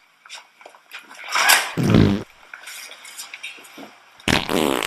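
Two dubbed-in fart sound effects: the first about a second and a half in ends in a deep rumble, the second comes near the end, with faint small clicks and rustles between them.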